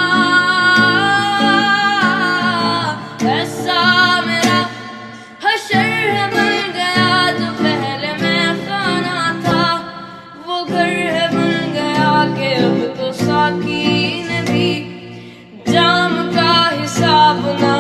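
Hindi song: a voice singing long, wavering notes over guitar accompaniment.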